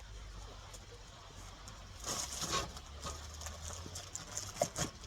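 Handling noise: rustling that starts about two seconds in, with a string of light, irregular clacks and knocks that come thicker near the end, over a low steady hum.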